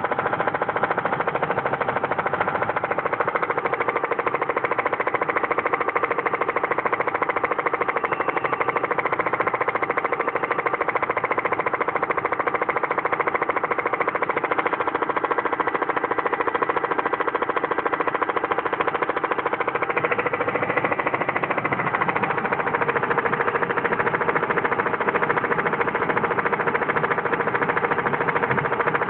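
Opel Astra G engine idling with a fast, steady tapping. It is an abnormal noise, a bad motor sound serious enough that the car was not driven. The tone shifts slightly about two-thirds of the way through.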